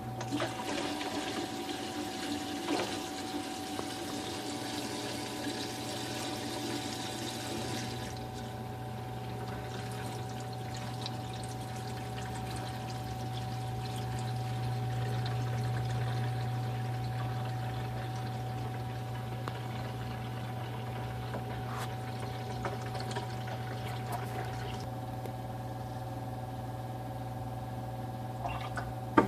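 Dishwasher drain water rushing through the under-sink plumbing for about eight seconds, then running on more quietly over a steady low hum. This is the plumbing that leaks after the dishwasher runs.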